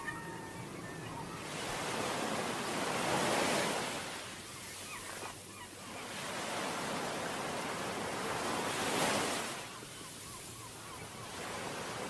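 Ocean waves breaking and washing up a beach: a constant rushing hiss that swells into two louder surges, about three seconds in and again about nine seconds in, then falls back.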